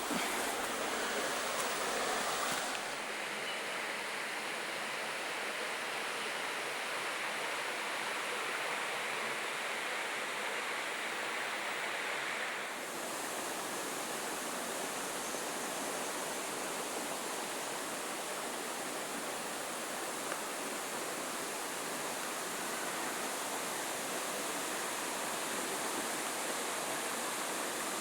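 Waterfall rushing: a steady, even wash of falling water, its tone shifting slightly about three seconds in and again about halfway through.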